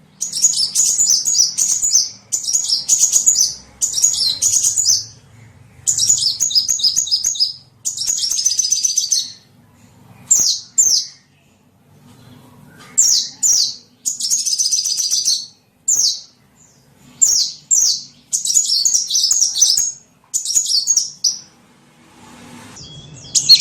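Small bird chirping in quick, high trills, given in repeated bursts of about a second with short pauses between: a small-bird lure call.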